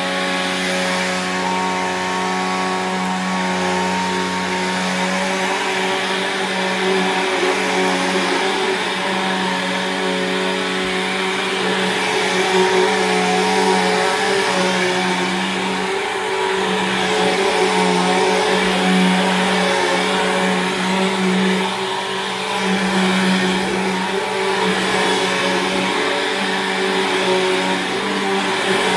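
Bissell CleanView 3574 vacuum cleaner running steadily while vacuuming. Its motor hum holds one steady low pitch and swells slightly in loudness now and then.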